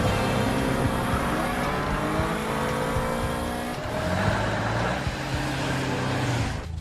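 Cartoon car-chase engine sound effects: motors revving and racing past. The engine pitch slides slowly downward, then changes about four seconds in.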